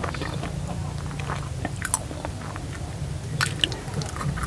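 Close-up chewing and biting of soft food, with scattered small wet clicks, over a steady low hum.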